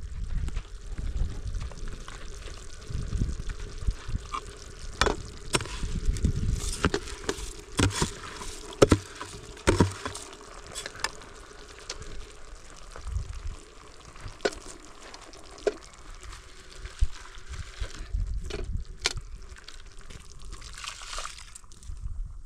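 Water being poured and sloshed, with many sharp clinks and knocks of handling scattered through it.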